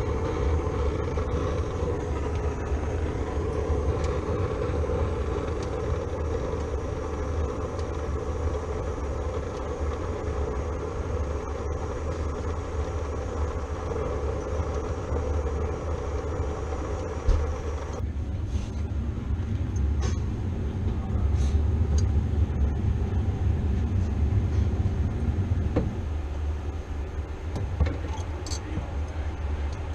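Steady rumbling hiss of a brazing torch on the evaporator's refrigerant line, over a low steady hum; the torch noise cuts off suddenly about eighteen seconds in, leaving a few light clicks and knocks.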